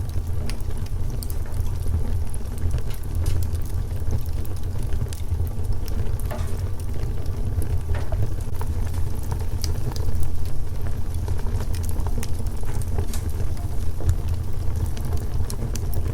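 Wood fire crackling, with frequent scattered sharp pops and snaps over a steady low rumble.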